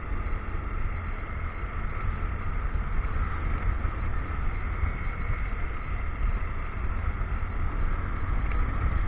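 Motorcycle running steadily on the move, with wind rumbling on the action camera's microphone.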